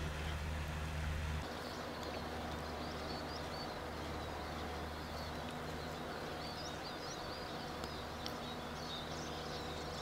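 Small birds chirping faintly, a flurry of quick high calls from about halfway in, over a steady low outdoor hum.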